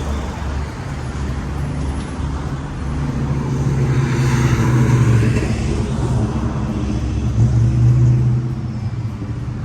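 Cars driving past on the road: a low engine rumble with tyre and road noise, swelling about four to five seconds in and again near eight seconds as vehicles go by.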